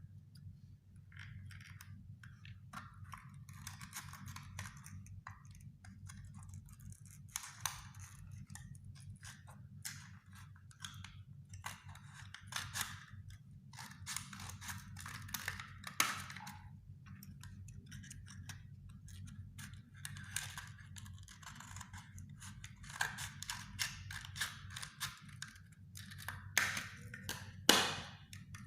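Cardboard of a cigarette pack being cut and handled: irregular scratchy cutting and scraping strokes, with a few sharp clicks, the loudest twice near the end. A steady low hum runs underneath.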